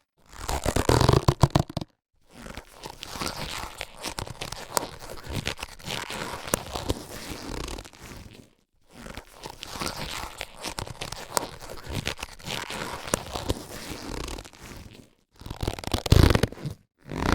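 Latex surgical gloves being handled and stretched: rubbing, crinkling and many small snaps, in long stretches broken by a few brief silences.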